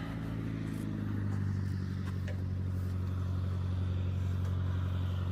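An engine running steadily at a constant low pitch, growing a little louder about a second in and then holding even.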